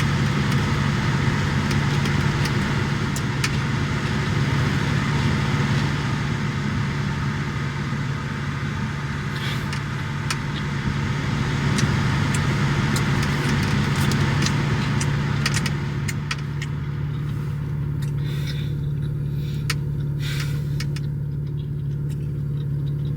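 Steady low hum of a car engine idling, heard from inside the cabin, with scattered small clicks and rustles that come more often in the second half.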